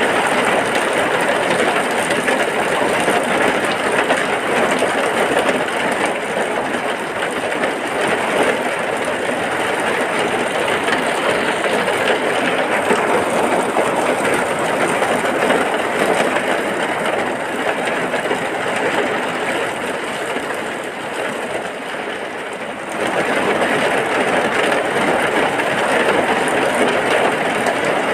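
Heavy rain falling steadily, a dense even hiss. It eases a little for a few seconds, then comes back full all at once near the end.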